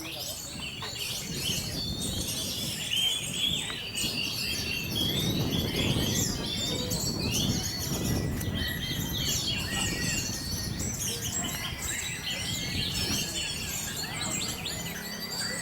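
Many songbirds singing at once, a dense chorus of overlapping chirps and whistles. A low murmur runs underneath, strongest in the middle.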